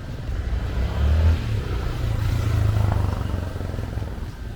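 A motor vehicle engine passing close by, with a low rumble that swells about a second in and again from about two to three seconds.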